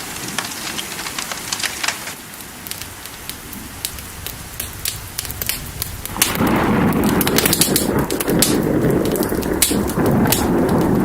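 Steady rain with sharp crackling pops throughout. About six seconds in, a loud low rumble of thunder rolls in and carries on.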